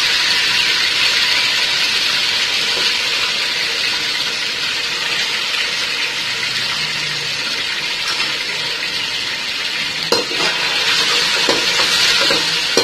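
Chicken pieces sizzling as they fry in hot oil in a pressure cooker, stirred with a metal ladle. A few knocks of the ladle against the pot come near the end.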